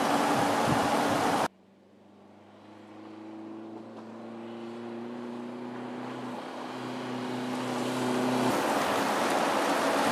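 Jeep Cherokee driving: loud rushing wind and road noise, cut off suddenly about a second and a half in. A steady engine hum follows, growing gradually louder as the vehicle approaches, before the loud rushing noise returns suddenly near the end.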